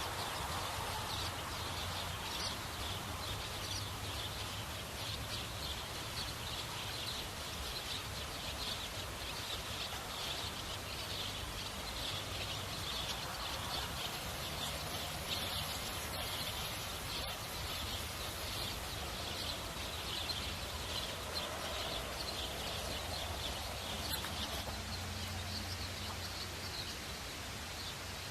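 Outdoor ambience: a steady, dense chorus of rapid high chirping calls, with a faint low hum underneath.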